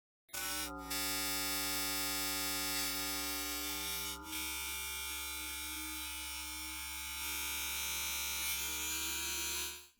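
White noise time-stretched with Bitwig's Elastique Pro algorithm, turned into a steady synthetic drone of many held tones. It starts a moment in, breaks briefly about four seconds in, and cuts off just before the end.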